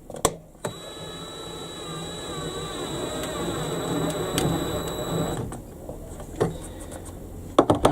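Cordless drill running for about five seconds as it drives a screw into a wooden beam, its battery nearly flat. It then stops, and a few clicks follow near the end.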